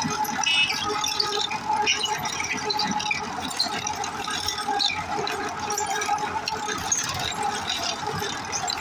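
Tractor running with a continuous busy metallic rattle from its machinery.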